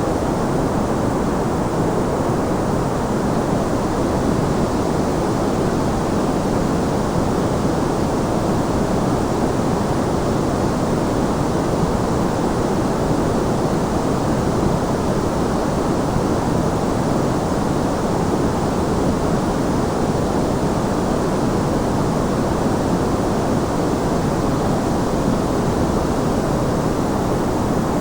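Steady, unbroken white noise for sleep, a full, even hiss weighted low, with most of it below about 2 kHz and a softer hiss above.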